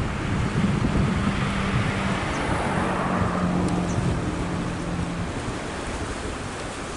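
Wind buffeting the microphone over washing water, with a low steady hum that holds for about two seconds, breaks briefly and returns for nearly three more.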